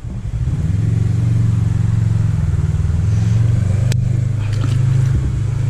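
A motor vehicle's engine running close by with a steady low drone, picking up a little about a second in.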